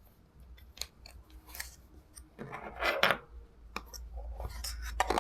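Handling noise: scattered sharp clicks and two short rustling, scraping bursts, one in the middle and one near the end.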